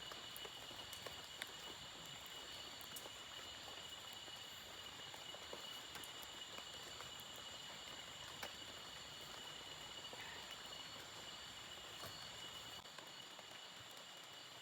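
Steady insect chorus: several shrill tones held without a break, over a faint even hiss with scattered small ticks.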